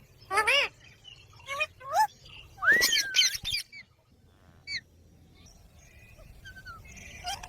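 A pet parrot calling: a run of short squawks and whistles, with one longer swooping call about three seconds in, then a single short call and a quieter stretch.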